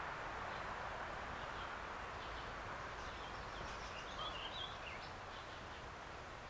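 Steady outdoor background hiss with a bird chirping: short high calls scattered through, with a quick flurry about four seconds in.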